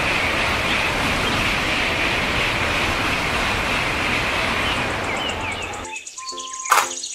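Shinkansen high-speed train passing at speed: a steady rush of wind and wheel noise that cuts off suddenly about six seconds in, with a few bird chirps near the end. A sharp click and a few short tones follow.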